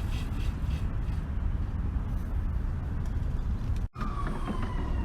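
Industrial grocery-store baler running with a steady low mechanical rumble. About four seconds in, the sound cuts out for a moment and comes back with a faint falling whine.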